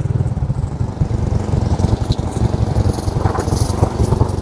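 Motorcycle engine running steadily with a rapid low throb.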